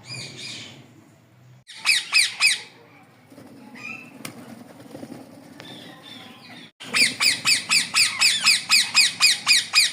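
Parrot squawking: a short run of harsh calls about two seconds in, then from about seven seconds a rapid, regular string of harsh calls, roughly four a second, each dropping in pitch.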